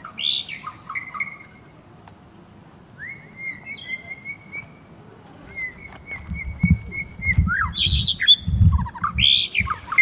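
A songbird chirping and giving short trilled calls at intervals, with low knocks and rustling in the second half.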